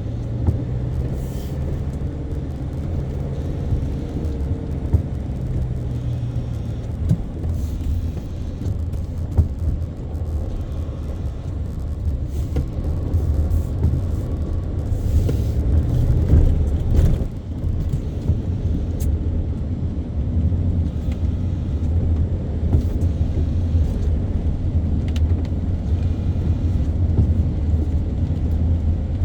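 Car being driven: a steady low rumble of engine and road noise, with a few faint clicks.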